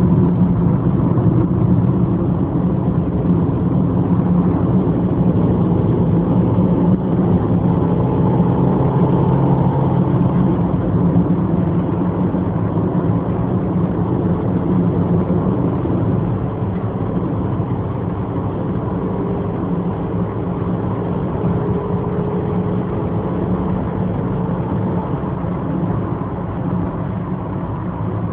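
Subaru Impreza GH3A's 1.5-litre naturally aspirated flat-four engine, with its automatic gearbox, running steadily under way, heard from inside the cabin together with road noise. The sound is steady and gradually gets a little quieter toward the end.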